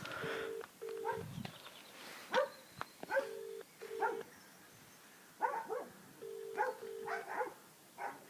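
UK telephone ringback tone heard through a mobile phone: a double-beat ring, two short beeps then a pause, repeating about every three seconds, from a call that goes unanswered. Over it come irregular short, sharp yelps, the loudest sounds, like a small dog barking.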